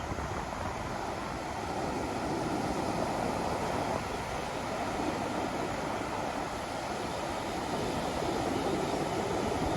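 Ocean waves washing on a beach: a steady surf rush that swells gently a few times.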